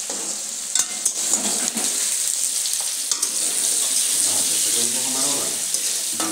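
Food sizzling in oil in metal kadhais on a gas stove, with a steady hiss, while a metal ladle stirs and scrapes against the pan. There are a few sharp clicks of the ladle about a second in and again near three seconds.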